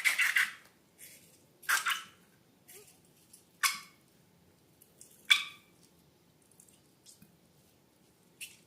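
Slime being squished and worked by hand: a series of short, wet squelches and crackles, about five of them a second or two apart, the loudest a little past the middle.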